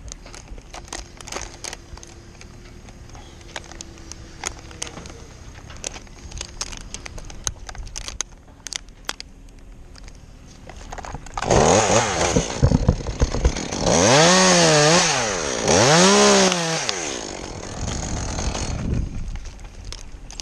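Chainsaw running and cutting: after a quiet stretch with scattered clicks, the saw comes up to full revs about halfway through, its pitch dipping and rising twice, then drops away shortly before the end.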